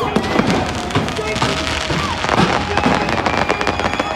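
Fireworks display: dense, irregular crackling and popping of bursting shells, heard together with loud music.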